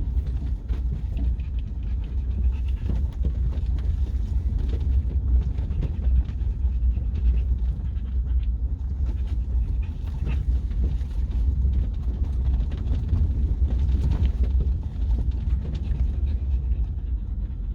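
Dog panting steadily inside a truck cab, over the steady low rumble of the truck driving.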